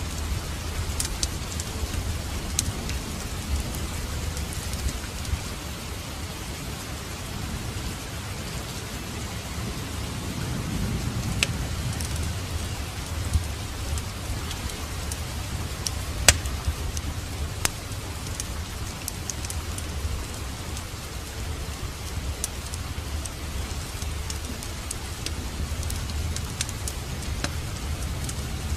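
Steady rain with scattered sharp crackles and pops of a wood fire burning in a fireplace, over a steady low rumble that swells briefly about ten seconds in.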